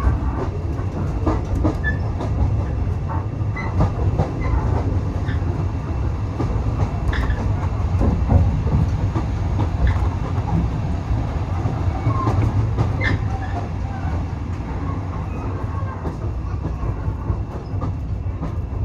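Passenger carriage of a heritage train running along the track, heard from aboard: a steady low rumble with scattered short clicks and squeaks from the wheels and carriage.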